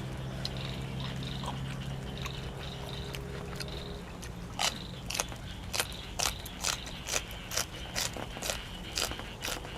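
Crunchy chewing close to the microphone: from about halfway through, crisp crunches come about twice a second, over a steady low hum.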